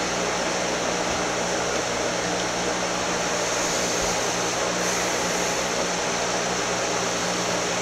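A steady mechanical whir with a low hum underneath, holding even throughout.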